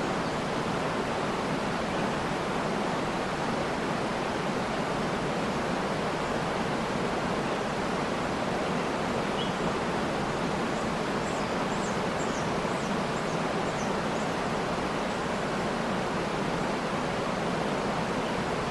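Waterfall rushing in a steady, even wash of water noise, with a few faint, high bird chirps about halfway through.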